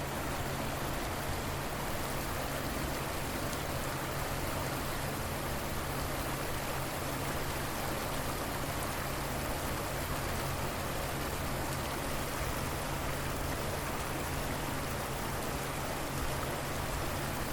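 River water flowing steadily, an even, unchanging sound of running water.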